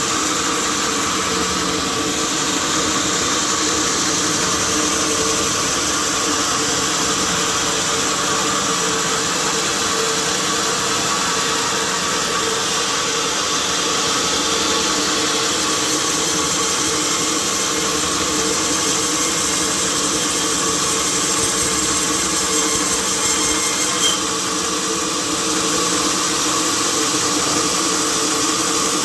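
Sawmill machinery running steadily: a continuous mechanical drone with several steady hum tones over a hiss. There is a brief tick about three-quarters of the way through.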